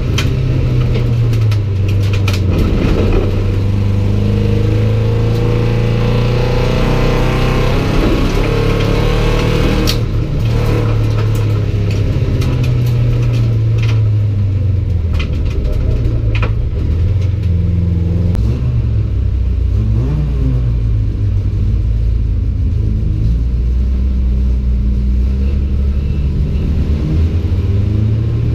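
Folkrace car's engine heard from inside the stripped cabin, revving up and down under hard driving on a dirt track, with scattered knocks and rattles from the body.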